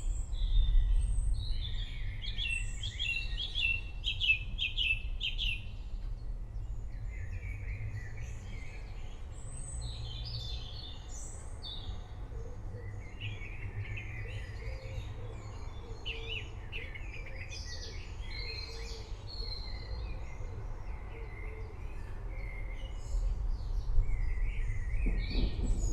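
Several wild birds calling and singing in a forest, many short chirps and whistles overlapping, with a fast run of repeated notes in the first few seconds. A steady low rumble lies underneath and grows louder near the end.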